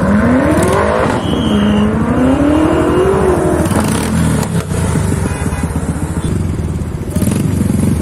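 A performance car engine accelerating hard: the note climbs steeply, drops at an upshift about a second in, climbs again and then falls off as the throttle closes. After that, a nearby engine runs at low revs with a dense, rapidly pulsing rumble.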